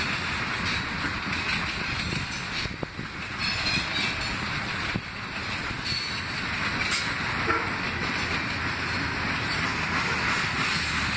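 Freight train cars, covered hoppers and tank cars, rolling past with a steady noise of steel wheels on the rails.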